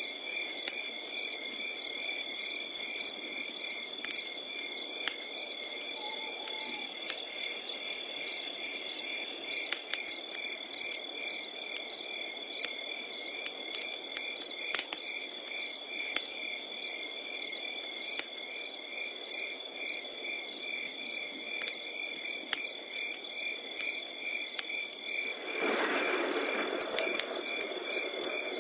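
Crickets chirping steadily, a constant high trill with pulsed chirps about twice a second, over a crackling wood fire that gives occasional sharp pops. A louder rush of noise comes in near the end.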